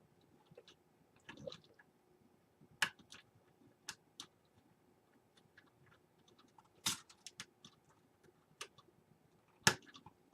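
Scattered small clicks and taps of fingers working plastic front-panel switch connectors and their leads inside a mini-ITX case, with three sharper knocks about three, seven and nearly ten seconds in.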